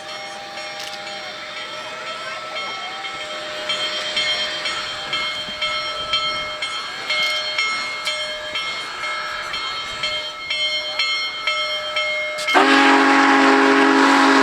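Union Pacific Big Boy 4014 steam locomotive hissing steam with a steady whine, then its steam whistle sounds one loud chord blast about twelve seconds in that lasts about two seconds.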